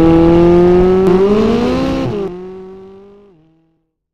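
Car engine sound effect running at loud, steady revs, its pitch creeping slightly upward, then dropping and fading away to silence about three and a half seconds in.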